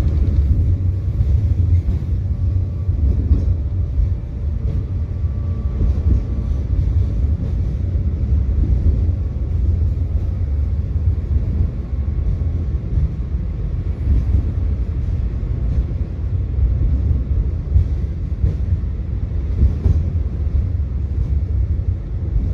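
Tram running along its line: a steady low rumble of wheels on rails and running gear, with a faint steady whine above it.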